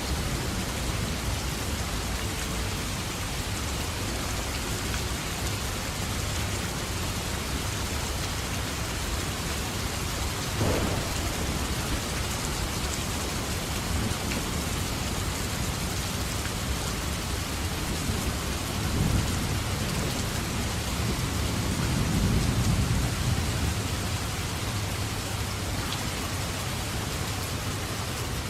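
Steady heavy rain falling, with low thunder rumbling now and then, one short crack about a third of the way in and a longer swell of rumbling near the end.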